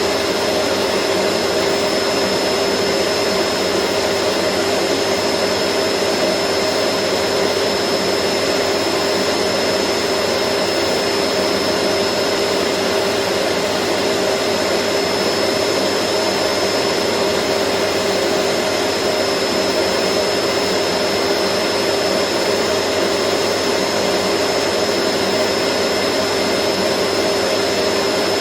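Vacuum cleaner motor running continuously: a steady, unchanging rushing hiss with a constant high whine over a lower hum.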